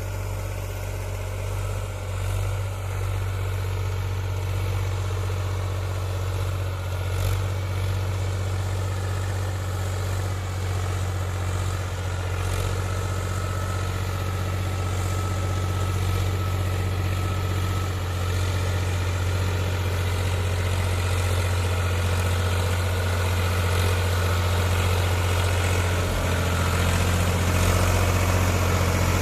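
Powertrac Euro 47 tractor's diesel engine running steadily, a low hum that grows slightly louder in the last few seconds.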